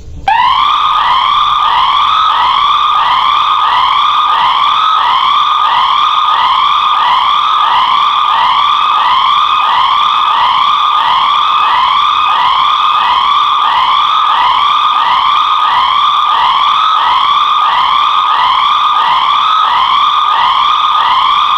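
Siren sounding in quick, evenly repeated upward sweeps, about one and a half a second, loud and steady. It starts abruptly just after the beginning.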